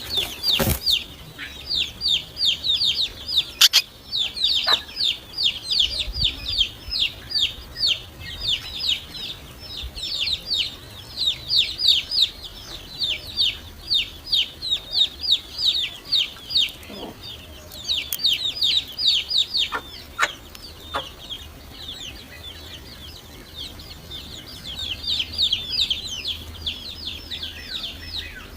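Great tit nestlings begging: high, rapid chirps repeated in dense runs with short pauses.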